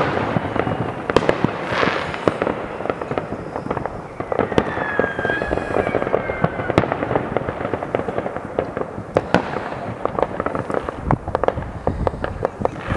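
Many fireworks going off across a town at once: a dense, unbroken rattle of distant bangs and crackles. A few falling whistles come through about four to six seconds in.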